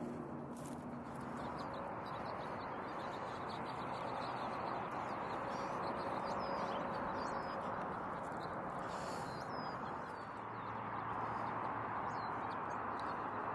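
Small birds chirping on and off, in short quick calls, over a steady distant rush of freeway traffic.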